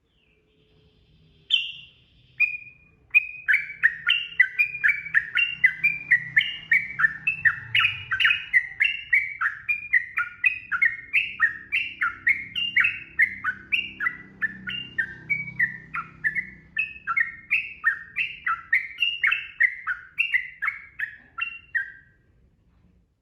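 Yellow-vented bulbul (trucukan) singing a long, rapid unbroken run of short, rising and falling whistled notes, about three a second, after two single opening notes. This is the continuous 'ropel' song.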